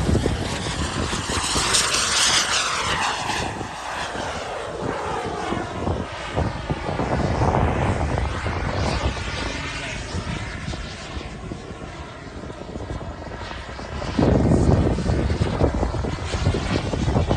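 Radio-controlled scale model airplane flying past, its engine note falling in pitch over the first few seconds as it goes by. A louder rush of engine noise comes in near the end.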